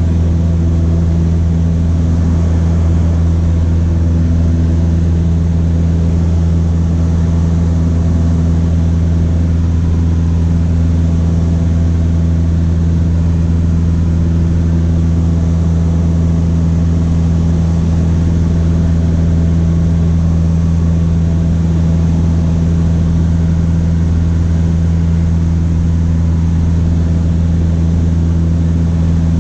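Cessna 152's four-cylinder Lycoming O-235 engine and propeller droning steadily at constant power, a loud, even low drone that does not change.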